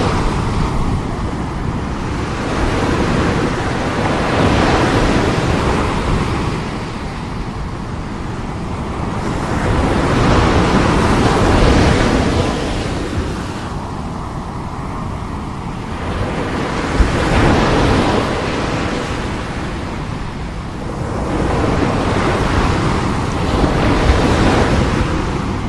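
Very strong sea waves breaking, the surf swelling and falling back about every six seconds, with wind rumbling on the microphone.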